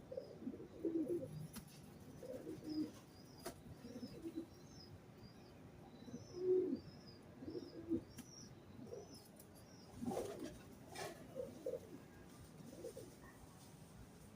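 Pigeons cooing in low, repeated calls, with a small bird chirping a steady series of short high notes through the first half. There are a few faint knocks.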